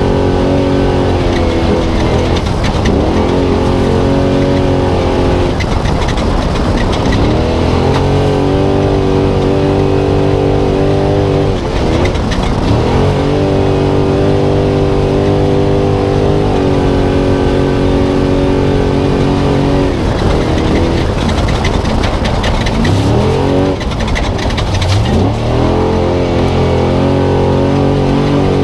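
Spec Trophy Truck's V8 engine heard from onboard, running hard at high revs. The revs drop and climb back again several times as the driver lifts and gets back on the throttle, most clearly about 3 s, 6 s and 12 s in, and again between about 23 and 25 s.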